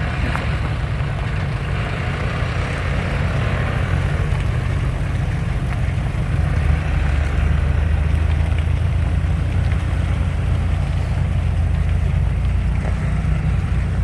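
Motor vehicle engine running steadily with a continuous low rumble, a little louder about halfway through.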